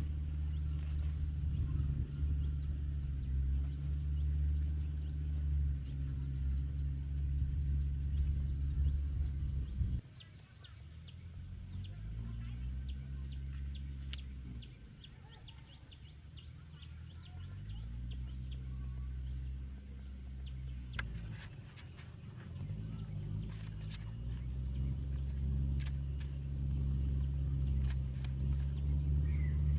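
A low engine-like drone, steady for about ten seconds, then falling away and rising and falling in pitch several times before settling back to a steady level. A thin, steady high whine sounds above it throughout, with scattered faint clicks.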